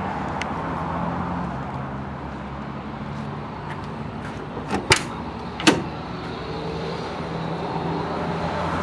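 Two sharp clacks from a truck's cab door, a little under a second apart, over a steady low vehicle hum.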